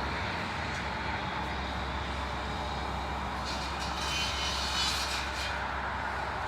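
Steady engine noise with a low hum, brightening briefly with a hiss in the upper range between about three and a half and five and a half seconds in.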